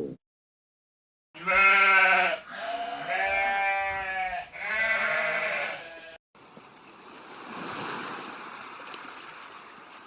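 Sheep bleating three times in a row, each a drawn-out pitched call. About six seconds in, the calls cut off and a fainter steady rushing noise follows.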